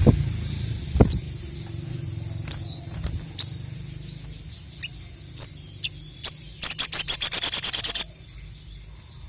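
A sogon, a small sunbird, calling: sharp high chirps spaced a second or so apart, then a loud rapid trill of about ten notes a second lasting a second and a half, about two-thirds of the way in. Two dull thumps come in the first second.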